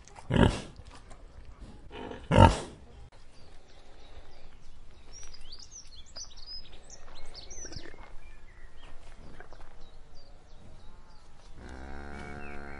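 A domestic pig grunts twice, loud and short, in the first few seconds. Birds then chirp faintly, and near the end a long, low, drawn-out animal call sounds.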